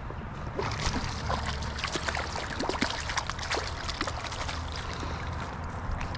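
Creek water running and trickling, with many short splashes and clicks scattered through it.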